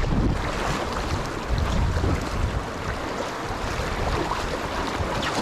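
Stream water rushing steadily, with wind buffeting the microphone in uneven low rumbles.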